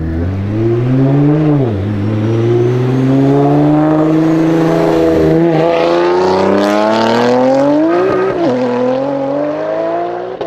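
Nissan GT-R R35's twin-turbo 3.8-litre V6 accelerating hard, its pitch climbing steadily and dropping sharply at upshifts about two seconds and about eight seconds in.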